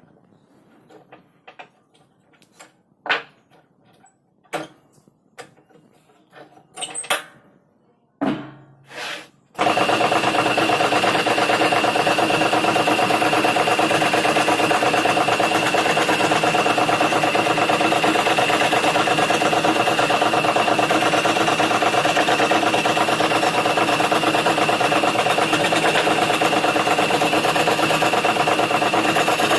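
A few sharp knocks and clicks, then an electric wood scroll saw switches on about nine seconds in and runs steadily, its blade moving up and down, with a constant high whine.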